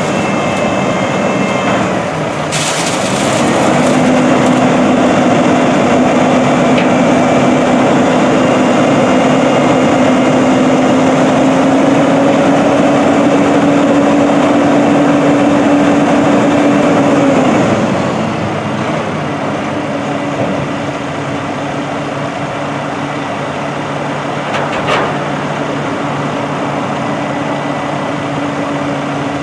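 2010 International dump truck's diesel engine running at raised revs, its pitch creeping up slightly, then dropping back to a quieter idle about 18 seconds in. A short click about 2.5 seconds in.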